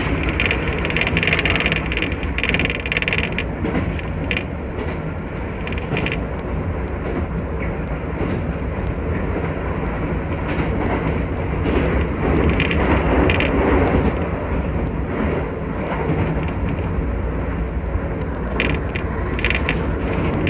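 Keisei 3000 series electric train running at speed, a steady rumble of wheels on the rails heard from inside the car behind the driver's cab, with scattered clicks and a slightly louder stretch about halfway through.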